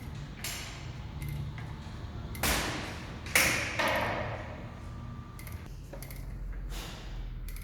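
Several metal clinks and knocks of small tools and parts handled on a workbench, the two loudest about two and a half and three and a half seconds in, each with a short ring, over a faint low hum.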